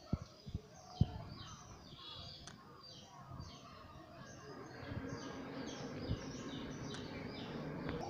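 Small birds chirping over and over, several short calls a second. A few low thumps come in the first second and one more about six seconds in.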